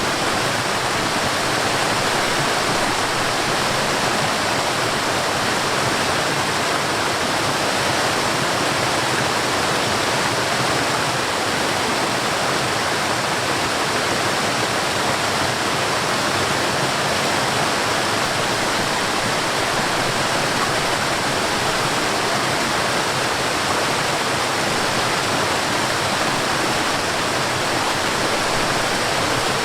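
Mountain stream and waterfall: water rushing in a steady, even hiss that does not change.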